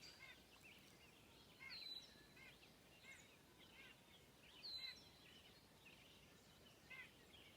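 Faint bird calls: a few short, high chirps spaced a second or two apart, over quiet outdoor background hiss.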